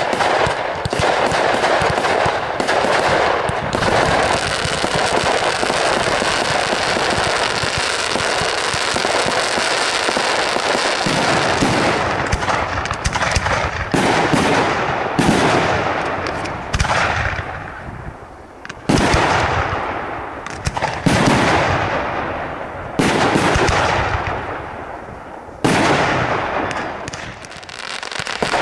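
Fireworks display. For about the first eleven seconds there is a dense barrage of rapid bangs and crackling. After that come single aerial shell bursts about every two seconds, each a sharp bang that fades away in a hiss.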